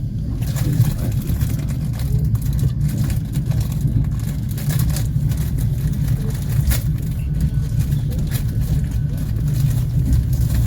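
Passenger train running along the track, heard from inside the carriage: a steady low rumble of wheels on rails with scattered light clicks.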